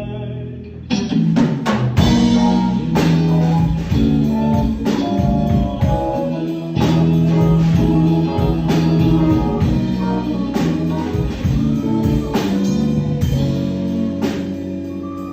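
Live rock band playing an instrumental passage: electric guitar, keyboard and bass under a drum kit, which comes in with the full band about a second in and eases off near the end.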